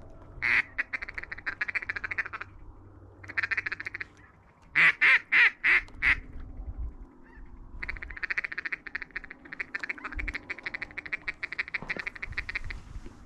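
Mallard-style duck call blown in runs of fast, even chattering clucks, a feeding chuckle. About five seconds in come five loud quacks in a row, a hail call.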